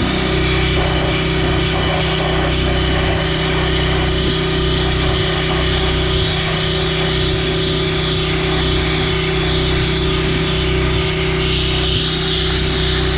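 Pressure washer running steadily, its motor's low hum under the hiss of a wet sandblasting nozzle spraying a water-and-sand jet.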